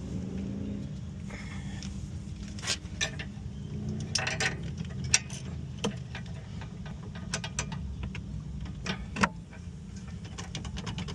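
Metal hand tools clicking and clinking now and then against the brake parts, over a steady low rumble.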